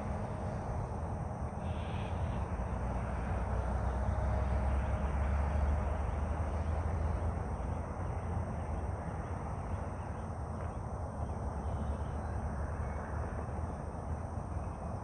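Outdoor ambience: a steady low rumble that swells a few seconds in, with a brief bird call about two seconds in.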